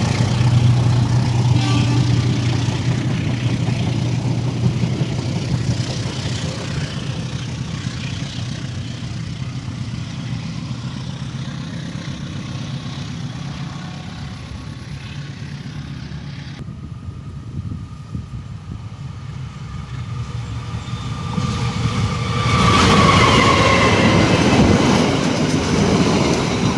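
Passenger train passing: a diesel locomotive's low engine hum and the rumble of rolling cars, fading over the first twenty seconds. Near the end it grows loud again with a high whining tone.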